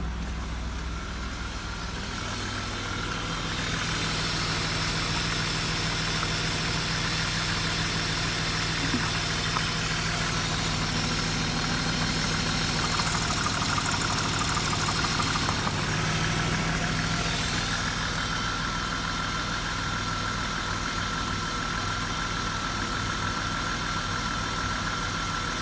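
BMW M50B25TU 2.5-litre straight-six running at a steady idle, with a thin, steady high whine over the engine note.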